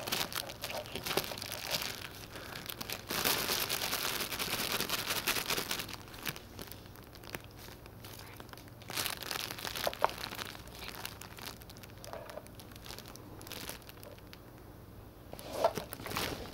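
A cat chewing and tugging at crinkly plastic: a run of crinkling and crackling that is heaviest over the first six seconds, then comes back in shorter bursts.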